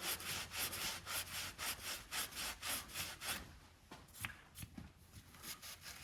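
Rapid back-and-forth abrasive rubbing by hand on an engine part, about five strokes a second, stopping a little past halfway and leaving a few light clicks.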